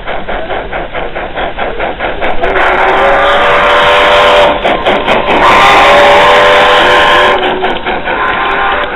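Garden-scale live-steam model locomotive chuffing in quick, even beats. About two and a half seconds in, a loud hiss with a few steady whistle-like tones takes over for about five seconds, dipping briefly midway, before the chuffing returns.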